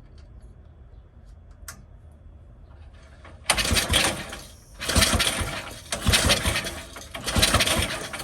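5 hp single-cylinder small engine with a Mikuni carburettor and turbo, quiet at first, then firing in four short sputtering bursts about a second apart from about three and a half seconds in, catching briefly and dying each time.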